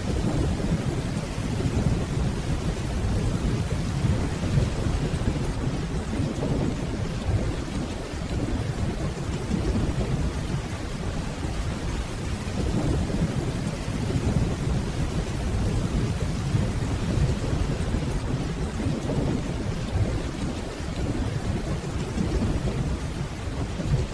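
Steady rainfall under a low, rolling rumble of distant thunder that swells and eases without any sharp crack.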